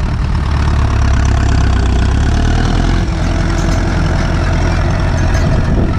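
Turbocharged Ursus C-360 tractor's four-cylinder diesel engine running steadily at an even speed.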